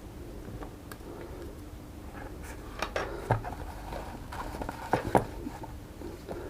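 Scattered small clicks, taps and rustles of goggle accessories being handled, busiest in the middle seconds.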